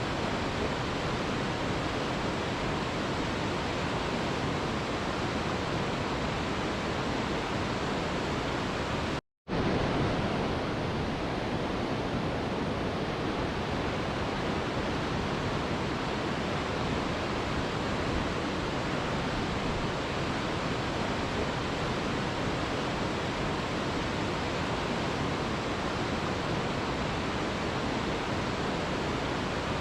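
Steady rushing of a waterfall, used as white noise. It cuts out to silence for a moment about nine seconds in, then comes straight back.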